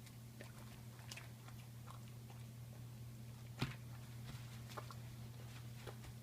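A pet crunching and chewing crackers, with irregular crisp crunches and one louder crack about three and a half seconds in, over a low steady hum.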